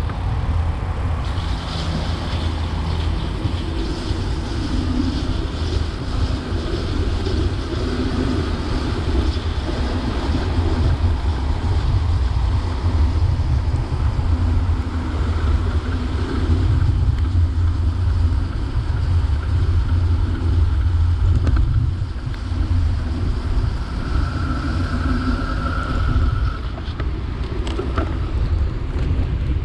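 Wind buffeting the microphone of a camera riding along on a moving bicycle: a steady, loud low rumble with road noise underneath. A brief higher-pitched tone stands out about twenty-five seconds in.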